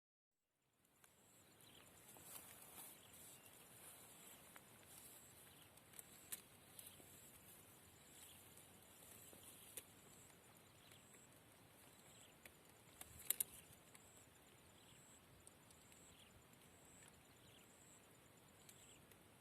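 Faint rural outdoor ambience: quiet short falling bird chirps, a faint steady pulsing insect-like tone, and a brief cluster of clicks about thirteen seconds in.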